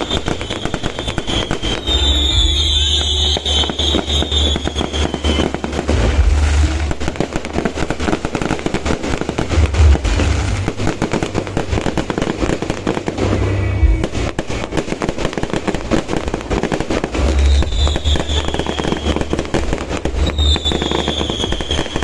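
Aerial fireworks display: a dense, continuous run of bangs and crackles with deep booms, and high falling whistles twice, about two seconds in and again near the end.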